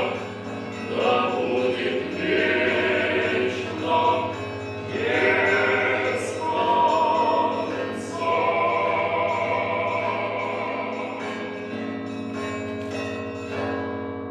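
Background music: a choir singing slow sustained phrases that hold a long final chord and fade out near the end.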